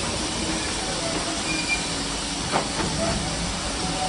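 Small industrial locomotive-hauled train running along the track: a steady rumble and rattle, with one sharp knock about two and a half seconds in.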